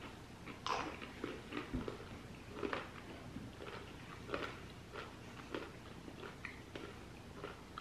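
Chopped roasted almonds being chewed: faint, irregular crunching.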